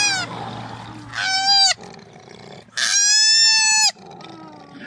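Baby koala calling in high, whimpering squeals with a steady pitch: a call trailing off at the start, a short one about a second in, and a longer one of about a second near the middle.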